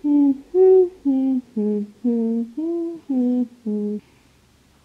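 A person humming a short tune of eight separate notes, which stops about four seconds in.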